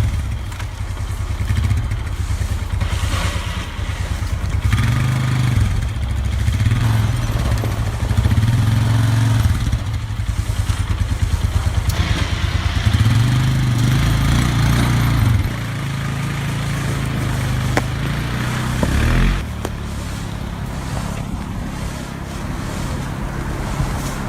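A heavy engine running and revving, its pitch rising and falling several times, then dropping back to steadier running past the middle.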